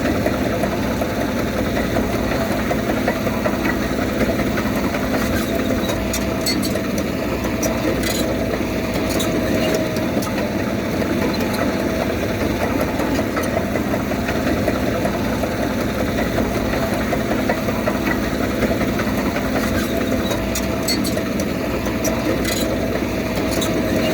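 Diesel engine of heavy earthmoving machinery running steadily, with a few faint clicks and clanks over it.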